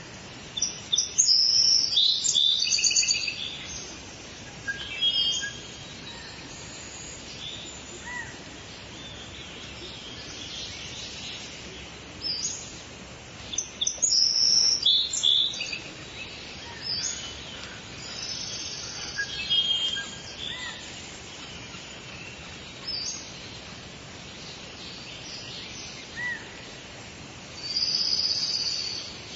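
Wild birds singing and calling in short bursts of chirps and rapid trills over a steady background hiss, with the loudest phrases about a second in, around fourteen seconds and near the end.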